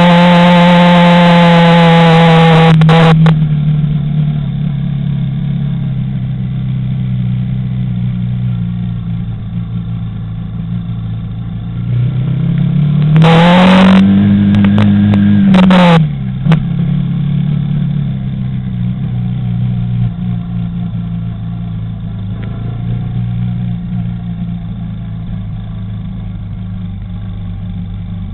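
Quad bike engine revving hard, then easing off to low revs about three seconds in. Around the middle it revs up again, rising and falling in pitch before dropping back suddenly, then runs on steadily at low revs.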